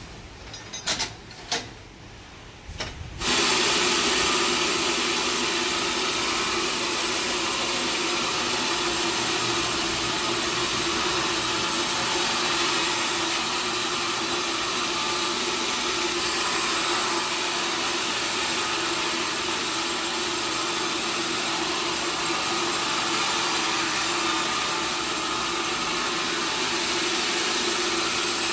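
A few sharp knocks, then about three seconds in a sawmill saw starts and runs steadily and loudly, a constant hiss with a steady hum, with no change in pitch or level.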